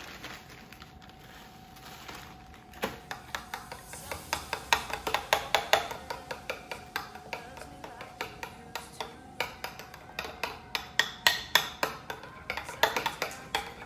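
Mixing in a bowl: a utensil clinking quickly and repeatedly against the bowl's side, starting about three seconds in.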